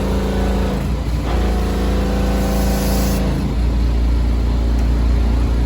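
Car engine running with a steady hum. A short hiss comes in the middle, and about three and a half seconds in the hum gives way to a deeper, rougher rumble.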